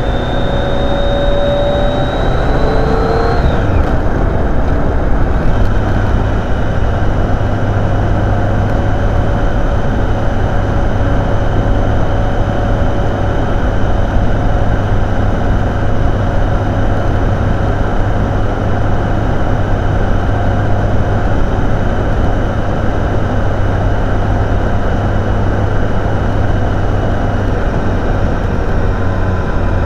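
Motorcycle engine running under way at a steady speed with heavy wind and road noise. The engine pitch drops about three seconds in, then holds steady.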